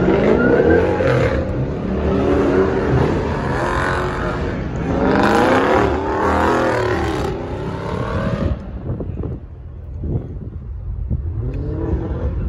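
Car engines revving over a steady low engine rumble, the pitch rising in runs twice, then dropping back to a quieter rumble near the end.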